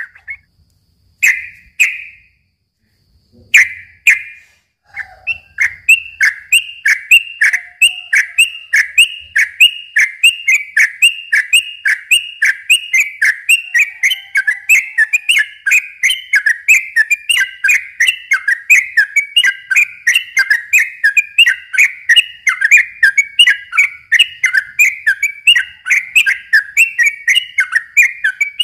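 Yellow-vented bulbul (trucukan) singing: a couple of short bubbly phrases, then from about five seconds in a long unbroken run of quick, repeated whistled notes, about two to three a second.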